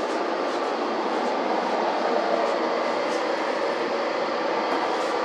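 Narrow-gauge (762 mm) Yokkaichi Asunarou Railway train, a steady running noise with a few faint light clicks.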